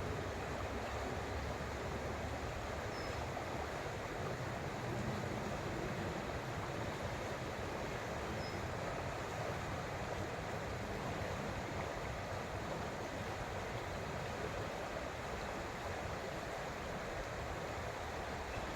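Creek water flowing over rocks: a steady, even rush of running water.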